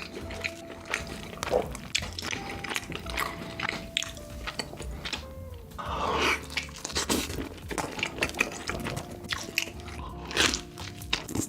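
Close-miked mukbang eating: crunchy bites and wet chewing in quick, irregular succession, with faint background music underneath.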